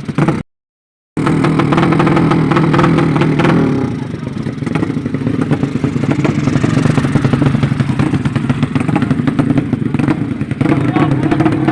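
Drag-racing motorcycle engines revving hard and loud. The sound cuts out completely for about half a second near the start, then comes back just as loud and eases slightly a few seconds later.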